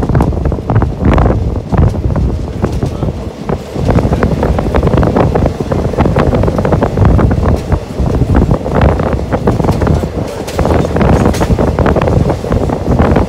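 Wind buffeting the microphone over the running noise of a moving passenger train, a steady rumble with constant irregular rattling and clanking from the coaches and wheels.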